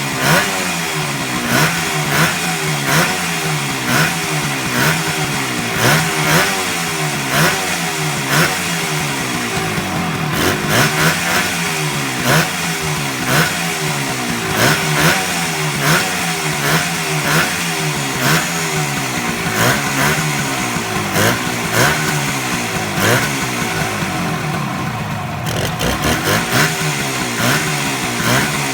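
1972 Suzuki T250's two-stroke parallel-twin engine, running for the first time in decades, being revved up and let fall back over and over, about once a second.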